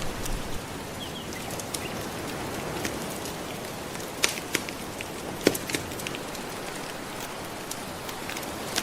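Wood fire crackling with scattered sharp pops, the loudest about four and five and a half seconds in, over a steady wash of gentle ocean waves.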